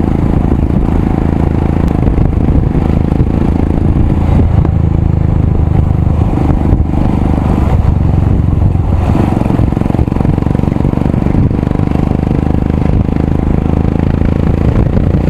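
Royal Enfield Himalayan's single-cylinder engine running through a loud aftermarket exhaust while being ridden over a bad road. The engine note stays steady, shifting a little in pitch midway.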